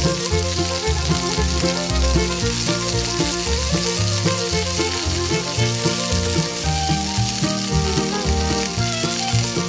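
Food sizzling steadily in a small clay pan as it is stirred with a metal spoon, under background music with a melody and bass notes.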